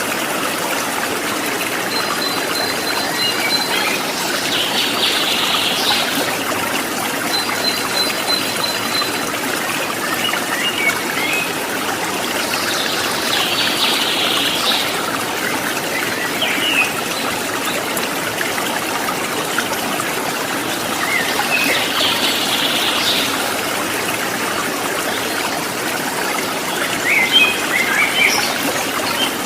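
Water trickling and flowing steadily, with small birds calling over it: a rapid high trill twice in the first ten seconds, harsher chattering calls a few times, and short chirps scattered through.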